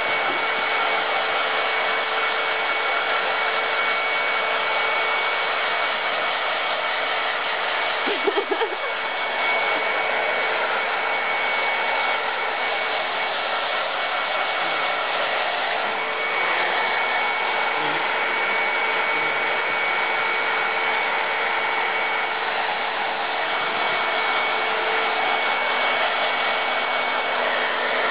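Hand-held hair dryer running steadily, blowing on a dog's fur after a bath: a constant rush of air with a thin whine held on one pitch. A brief wavering sound breaks in about eight seconds in.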